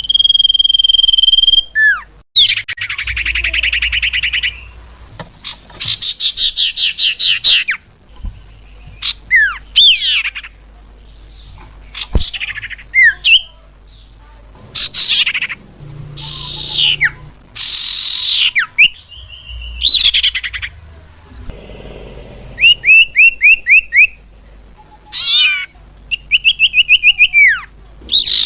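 Cipau bird calls used as a lure: a steady whistle at the start, then buzzy trills, downward-sliding whistles and quick runs of repeated chirps, one after another with short gaps.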